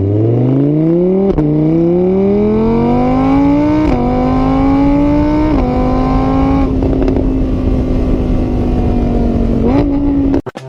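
Car engine accelerating through the gears. The pitch climbs and drops back at each shift, about one and a half, four and five and a half seconds in, then holds steady at speed before cutting off abruptly near the end.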